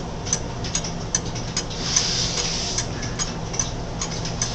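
Freshly rebuilt antique pendulum clock dated 1865 ticking steadily, about two to three ticks a second.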